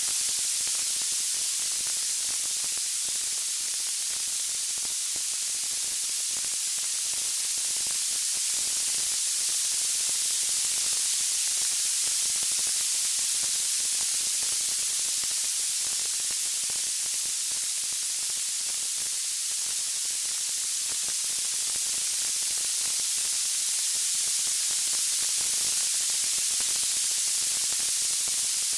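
Steady high-pitched hiss of white noise, even and unchanging, with no distinct crackles or music.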